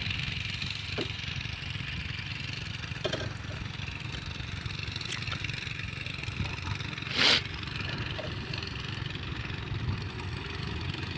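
Heavy diesel machinery running steadily, with a few light knocks and one short, louder scrape or clank about seven seconds in.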